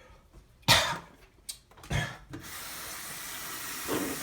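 A few knocks, then a kitchen tap turned on about two and a half seconds in, with water running steadily into the sink.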